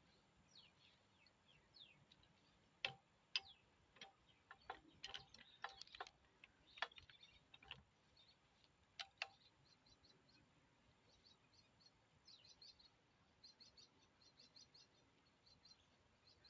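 Near silence with faint high bird chirps. A handful of sharp clicks come in the middle, and quick faint high ticks follow near the end.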